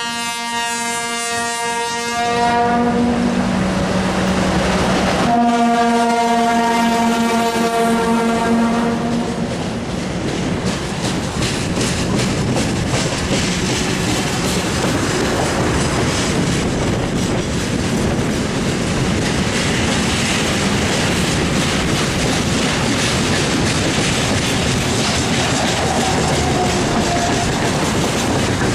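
A train's two-tone horn sounds a long high note, a short lower note, then another long high note, and the train then runs past with a steady rumble and clatter of wheels over the rail joints.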